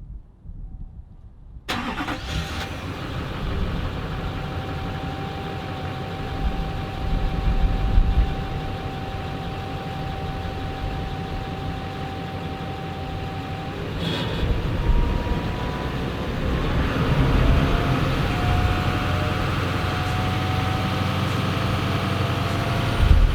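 2007.5 Chevy 2500's Duramax turbodiesel V8, on its stock exhaust, starting up about two seconds in and then running at idle, louder for a moment around eight seconds, with a sharp click near the middle.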